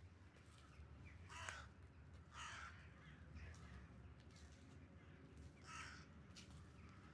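A few faint bird calls over a low, steady city background, with three stronger calls about one and a half, two and a half and six seconds in.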